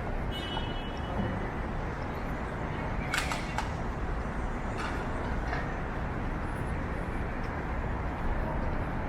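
Steady hum of a busy downtown street at night: traffic and general city noise. There is a short high-pitched squeal in the first second, and a couple of brief knocks about three and five seconds in.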